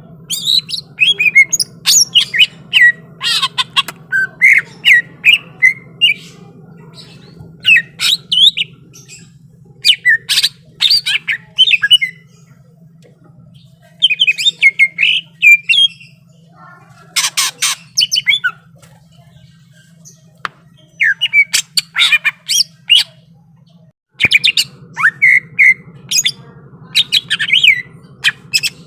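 Cucak ijo (green leafbird) singing loud phrases of quick, varied whistles, chirps and harsh notes, with short pauses between phrases, over a steady low hum.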